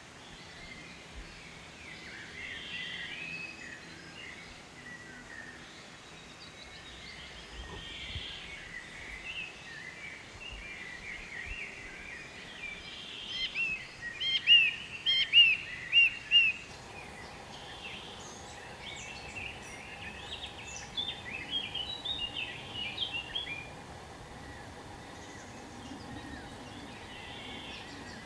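Several wild birds calling and chirping over a background hiss, with a loud run of quick, repeated chirps about halfway through and another busy patch of calls a little later. The background changes abruptly a little past halfway, and a faint steady hum comes in.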